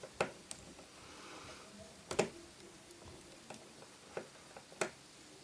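Small, sharp clicks and ticks of a precision screwdriver working a stubborn tiny screw in an iPhone 4's metal bracket. About six irregular clicks, the loudest about two seconds in.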